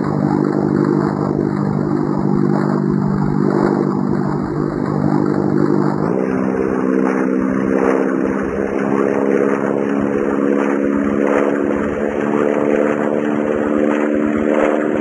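Airplane engine drone, steady and even, stepping up slightly in pitch about six seconds in.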